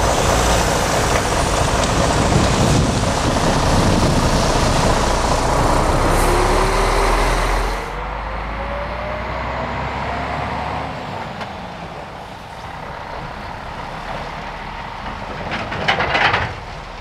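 A slow freight train passing, with heavy rolling noise that drops off sharply about eight seconds in. A short burst of hiss comes near the end.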